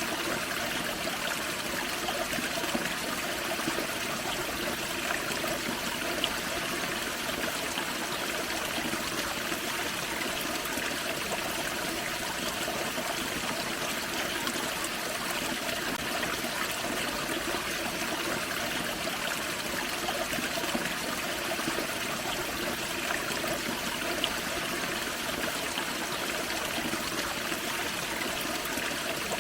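Small waterfall on a forest creek, water splashing and trickling over rocks in a steady, even rush.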